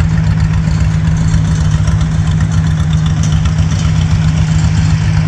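An engine idling steadily, a constant low hum and rumble.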